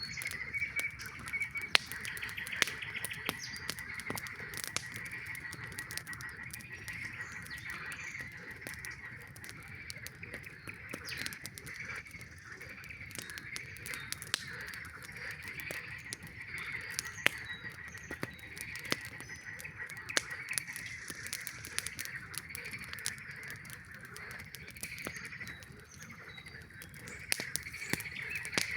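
A chorus of frogs calling without a break, many overlapping pulsing calls at much the same pitch, with a campfire crackling and popping throughout.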